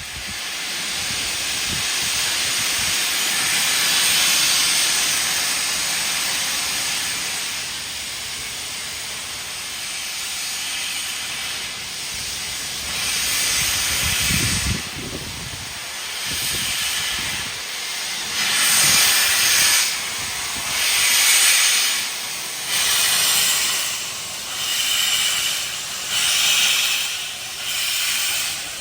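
Steam locomotive letting off a steady hiss of steam, then slow, regular exhaust beats about one a second as it begins to move off.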